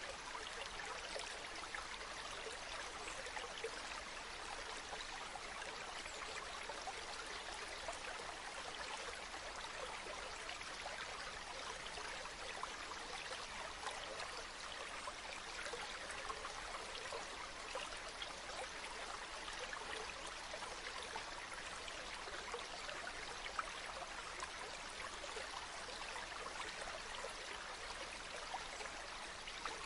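A small stream babbling and trickling steadily, with a dense patter of little splashes.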